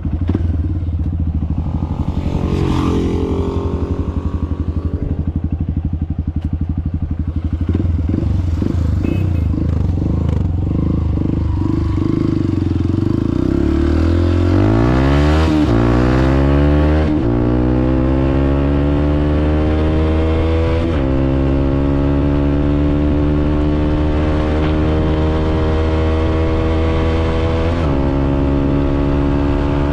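Honda CRF150L's single-cylinder four-stroke engine through an open, unmuffled pipe under hard acceleration. It runs steady at first, then revs up quickly through the gears about halfway in, and its pitch climbs slowly toward top speed, with brief dips near 21 s and 28 s.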